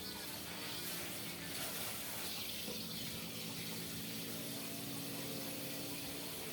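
Water running steadily from a kitchen tap, a continuous even rush.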